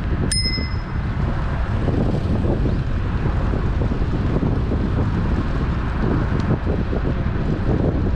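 A single short bicycle bell ding about a third of a second in, ringing briefly and dying away, over loud steady rumbling of strong wind on the microphone.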